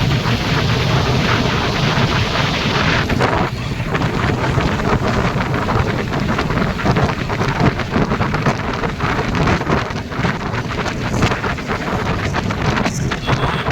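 Wind rush and rain striking the microphone of a Honda CBR motorcycle ridden in the rain, a dense crackling patter over a steady rush, with the engine running low underneath. The rush eases a little about three seconds in.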